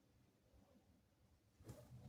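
Near silence: room tone, with a faint brief sound near the end.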